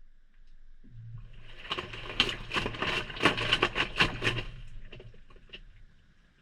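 Maytag front-loading washer drum turning during a delicate cycle, heard from inside the drum: the motor hums on about a second in, then wet laundry tumbles and sloshes for a few seconds with sharp little splashes and knocks, fading out as the drum slows to a stop.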